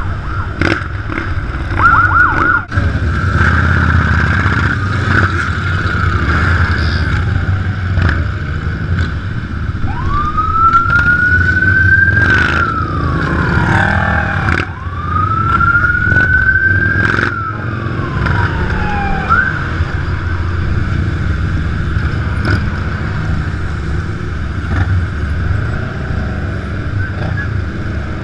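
Big motorcycle engines running steadily while a siren sounds over them: a few quick yelps about two seconds in, then two long wails in the middle that each rise and fall.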